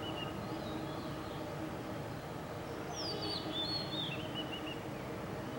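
A songbird singing a short phrase of high whistled notes that step down in pitch, heard once about three seconds in (with the tail of an earlier phrase at the very start), over a steady low background rumble.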